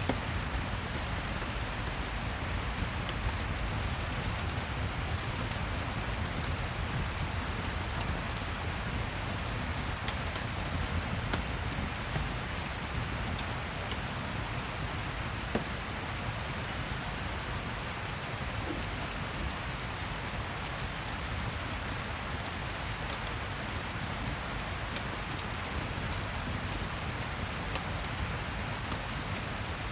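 Steady rain ambience, an even hiss, with scattered faint crackles from a fireplace.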